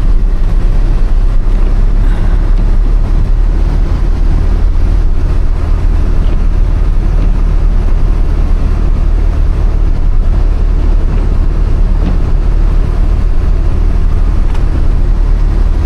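A 1993 Toyota Corolla 2.0 diesel driving on a muddy dirt road, heard from inside the cabin: a steady low engine drone with road noise from the tyres and body.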